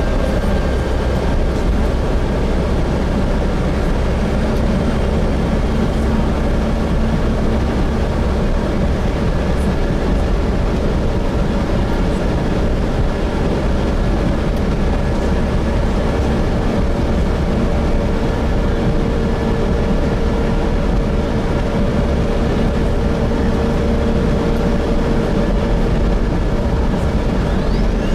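Gillig Phantom diesel transit bus with a Voith transmission under way, heard from inside the passenger cabin: a steady engine and drivetrain drone over heavy low road rumble, with a few humming tones that shift slightly in pitch.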